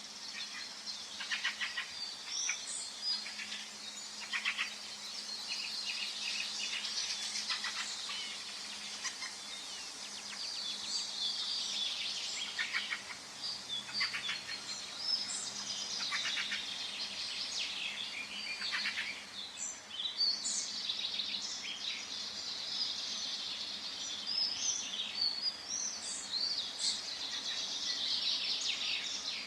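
A chorus of several songbirds singing and calling at once: overlapping high chirps, whistles and fast trills, over a faint steady background hiss.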